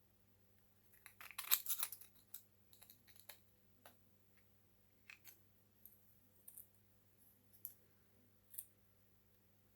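A quick run of light clicks and scrapes about a second in, then scattered single clicks and taps: small parts being handled on a workbench. A faint steady electrical hum sits underneath.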